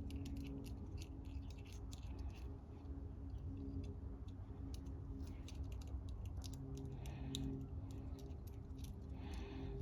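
Light, irregular clicks and small scrapes of a thin tool being worked in the lawn mower carburetor's jet holes, over a steady low hum.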